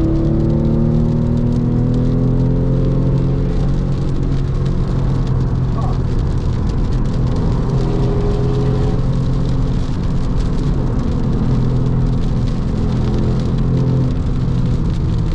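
Porsche 996 Carrera's 3.6-litre flat-six running hard under load through a valved sport exhaust, heard from inside the car at track speed. The pitch holds mostly level, rising and dipping a little, over the hiss of wet tyres and spray.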